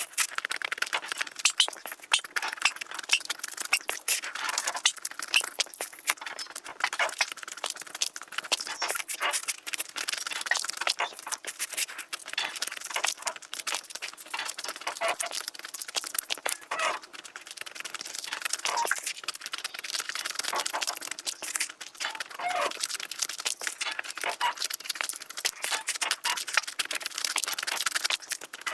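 Close-miked eating sounds: dense, continuous chewing and crunching with crackly mouth clicks.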